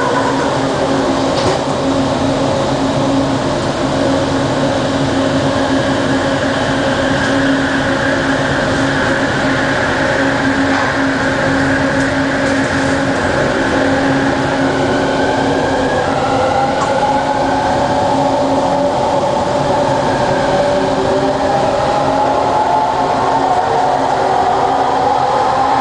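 Bombardier ART Mk II train's linear induction motor drive whining as the train pulls away, over steady running noise and a low hum. From about halfway through, several whining tones rise in pitch as the train gathers speed.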